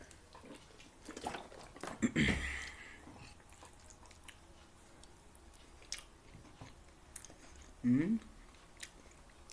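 A man chewing and biting taco gratin close to the microphone, with small fork clicks on the plate. There is a louder thump about two seconds in and a short vocal sound about eight seconds in.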